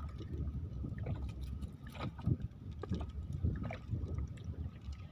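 Water lapping and sloshing against a small boat's hull, over a low steady rumble, with scattered light knocks.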